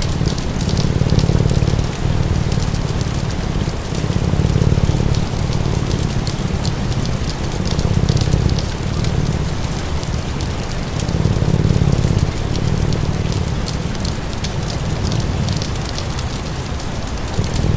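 Steady rain with a crackling fire: fine pops and snaps over an even hiss, and a low rumble underneath that swells and fades every few seconds.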